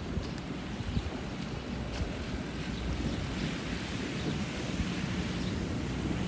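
Steady rain noise in a street, with a low rumble underneath.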